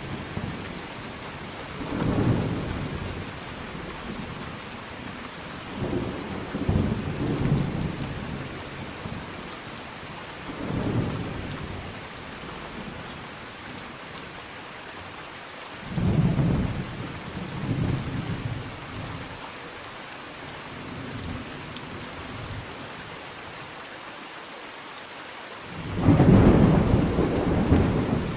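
Steady rain falling on a surface, with rolls of thunder rumbling every few seconds; the loudest, longest peal breaks out near the end.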